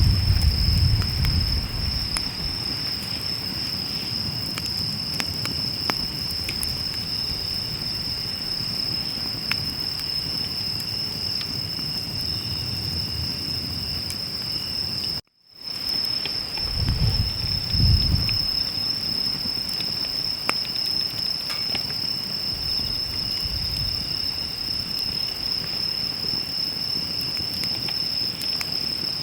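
Crickets chirring steadily and high-pitched over a wood campfire crackling with small scattered pops, with a few low rumbling swells. The sound cuts out completely for a moment about halfway through.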